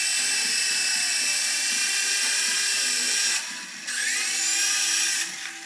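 Motor of a small radio-controlled helicopter whining at high pitch as it spins the rotor, dropping off briefly about three and a half seconds in, then spinning back up with a rising whine, and easing off again near the end.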